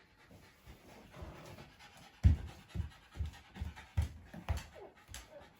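Shiba Inu dog panting hard in quick, regular breaths, about two to three a second, starting about two seconds in: a dog winded after a burst of excited running.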